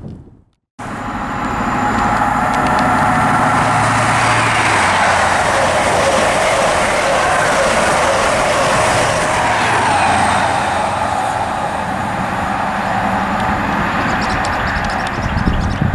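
LNER High Speed Train (InterCity 125) with its two Class 43 diesel power cars passing through the station at speed: a loud, steady rush of wheels on rail and engine noise. It starts suddenly under a second in, after a short silence.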